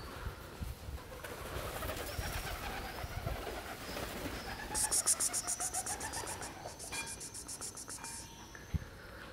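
Birds calling: wavering cooing notes, and a fast, high, evenly pulsed trill that comes twice, about five seconds in and again near the end.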